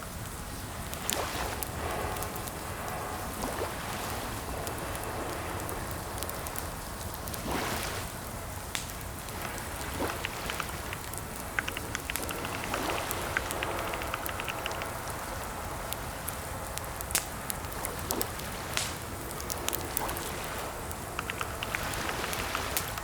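Computer keyboard typing: irregular clicks of keys, in quick runs and pauses, over a steady hiss.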